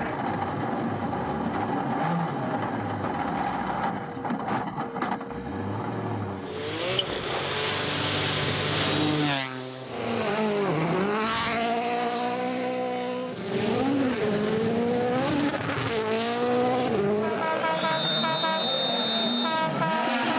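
Rally cars at full throttle on a gravel stage, engines revving up and dropping back through gear changes as one car after another comes through. About halfway there is an abrupt break, then an engine falls sharply in pitch and climbs again as it slows and accelerates away.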